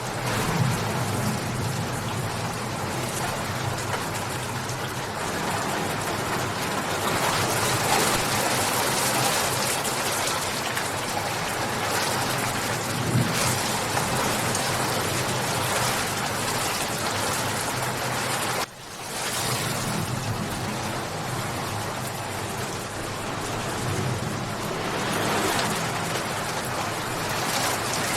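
Steady, heavy rain, an even hiss of falling drops. It dips suddenly and briefly about two-thirds of the way through, then comes back.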